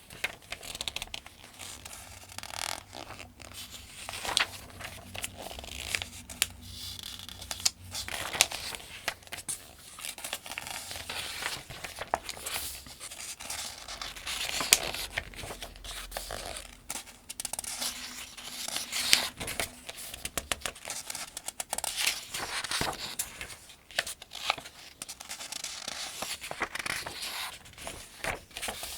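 Pages of the 2025 Farmers' Almanac being turned one after another: a run of paper rustles and crisp flicks, close up.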